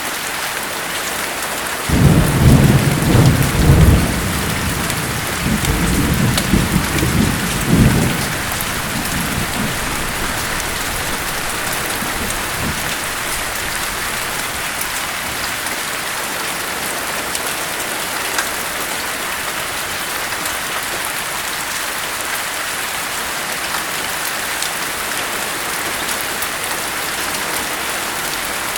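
Steady heavy rain with a rumble of thunder that breaks in suddenly about two seconds in, swells twice and fades away within several seconds.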